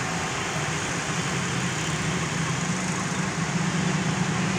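Heavy rain falling in a steady hiss, over a steady low engine hum.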